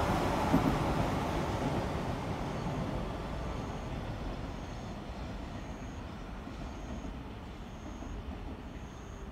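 Electric commuter train running along the line, its rumble fading steadily as it moves away.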